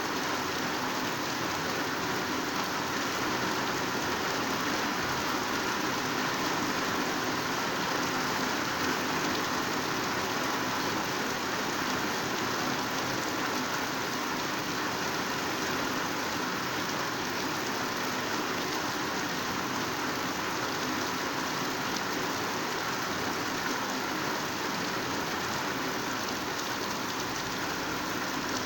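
Heavy rain pouring steadily, a dense even hiss of raindrops without letup.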